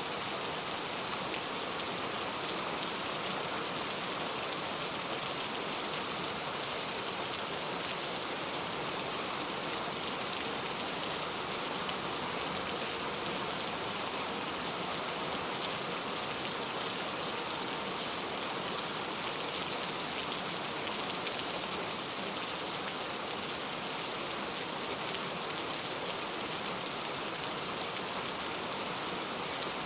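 Steady heavy rain, an even hiss of falling drops with no breaks.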